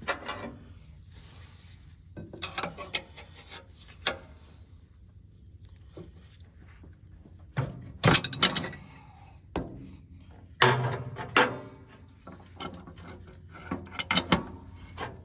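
Hand wrenches clinking and clanking against metal hydraulic hose fittings as they are fitted and worked on a tight fitting, in several separate bursts of sharp knocks.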